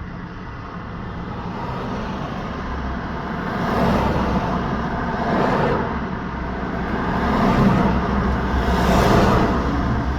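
Road traffic: motor vehicles passing one after another over a steady tyre and engine rumble, with several pass-bys swelling up and fading about every couple of seconds.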